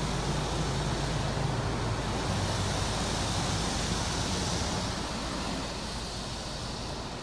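Automatic car wash machinery working over the car, heard from inside the cabin: a steady rushing hiss with a low rumble underneath, easing off near the end.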